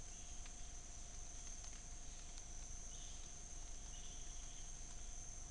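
Rainforest insect chorus: a steady high-pitched insect trill and a fainter steady lower drone. Short buzzy calls come about four times, and there are a few faint clicks.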